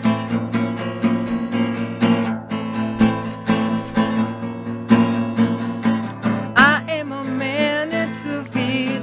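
Acoustic guitar strummed in a steady rhythm, playing a song's introduction; a voice comes in with wavering notes over the chords about six and a half seconds in.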